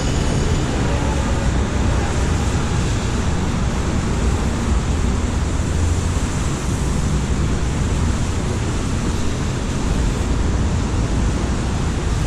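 Moving train heard from inside the car: a steady, loud rushing noise over a deep rumble.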